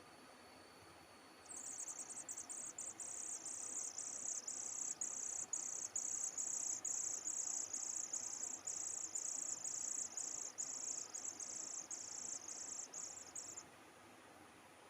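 An insect chirping in a fast, even train of high buzzing pulses, about two a second, that starts a second or two in and stops abruptly near the end.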